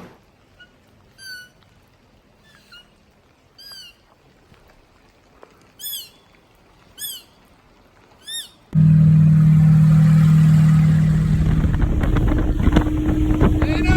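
A quiet stretch with about six short rising-and-falling chirping calls. About nine seconds in, a sudden cut to loud, steady boat engine noise, with a low hum and wind hiss; the hum shifts higher near the end.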